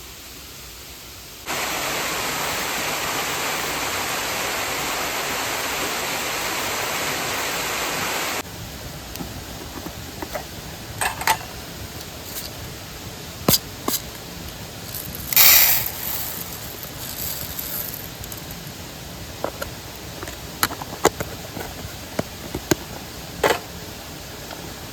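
Steady rush of a mountain stream, much louder for about seven seconds near the start, then lower, with scattered sharp clicks and knocks and one short hissing burst over it in the second half.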